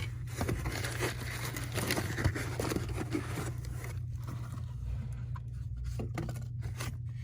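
Rustling, scraping and small clicks of packaging being handled as a box of model train cars is opened, busier in the first few seconds and sparser after. A steady low hum runs underneath.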